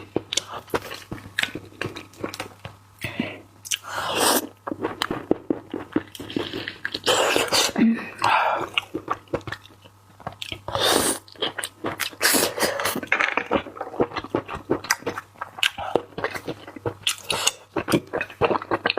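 Close-miked chewing, a person eating, with dense wet mouth clicks and a few louder breathy noises. A steady low electrical hum runs underneath.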